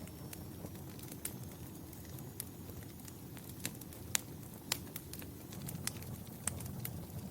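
Wood fire in a fireplace crackling, with sharp, irregular pops and snaps over a steady low rumble of flames. A few louder pops come near the middle.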